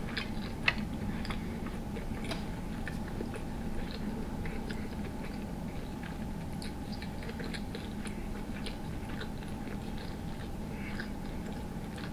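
Close-miked chewing of a mouthful of potato, sausage and shrimp in sauce, with many small wet mouth clicks. One sharper click comes just under a second in.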